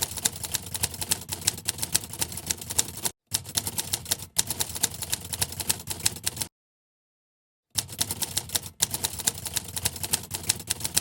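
Heavy rain striking a hard surface close to the microphone: a dense, irregular patter of sharp clicks, broken off twice by short gaps and once by a second or so of silence about two-thirds of the way through.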